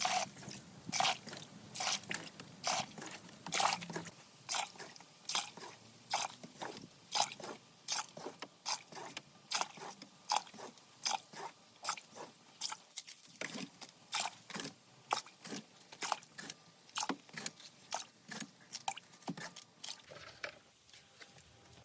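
Repeated short crunching scrapes of a hand tool working on rusty metal, about two to three strokes a second, uneven in strength.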